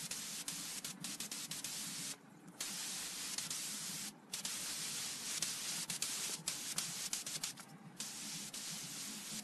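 Steady hiss of air spraying, running in long bursts broken by three short pauses.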